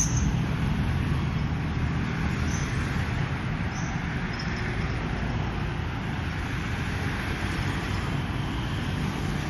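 Steady road traffic noise: a continuous rumble of vehicles passing on the road.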